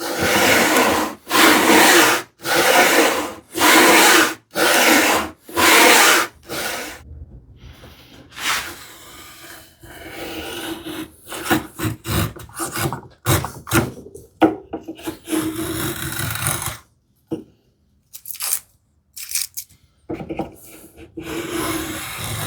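Hand saw cutting into a wooden strip to start a groove by hand, with even strokes about one a second for the first six seconds. Then quieter scraping and a few sharp knocks as the work goes on.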